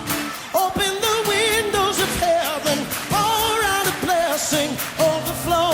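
Pop song playing: a singer's held notes with vibrato over a band with a steady beat.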